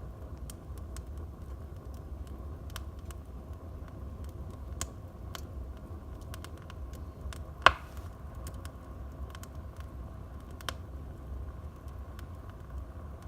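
Wood fire burning in a fireplace: scattered small crackles and snaps of the burning logs over a low steady rumble, with one sharp, loud pop a little past halfway.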